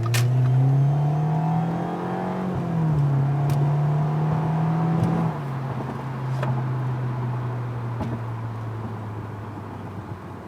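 2012 Audi A4 2.0T's turbocharged four-cylinder running through a stainless turbo-back exhaust with a high-flow cat, pulling under acceleration. The note climbs, drops at a gear change about two and a half seconds in, and climbs again. About five seconds in it falls to a lower, steady note that slowly sinks.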